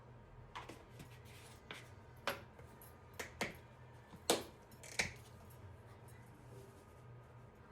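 Kitchenware being handled: about seven sharp clinks and knocks of dishes or utensils set down and moved over five seconds, the loudest a little past the middle, over a faint steady low hum.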